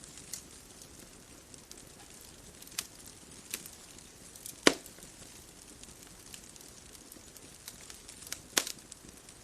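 Wood fire crackling: scattered sharp pops over a steady soft hiss, the loudest pop about halfway through and another strong one near the end.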